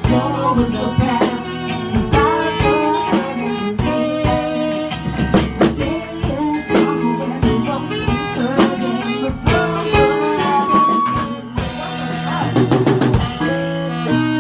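Live rock band playing: a drum kit keeping a steady beat with rimshots under guitar.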